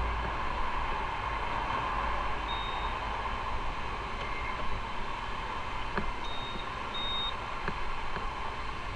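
Motorcycle riding along, with a steady rush of wind and road noise over the engine. Three short high-pitched beeps sound, the first a few seconds in and the other two close together later.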